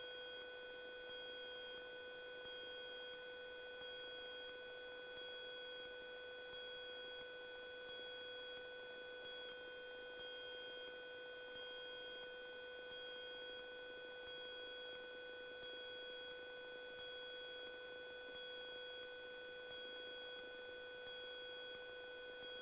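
Faint, steady electronic tone holding one pitch throughout, with fainter higher overtones; one of the higher overtones shifts slightly about halfway through.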